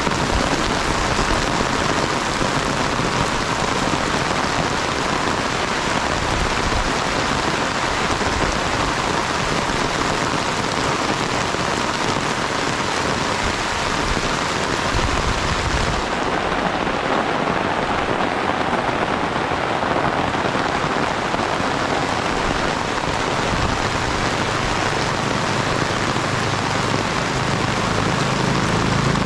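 Steady, heavy rain falling, a dense even hiss with no breaks. About halfway in the hiss becomes a little less bright, and a faint low hum joins near the end.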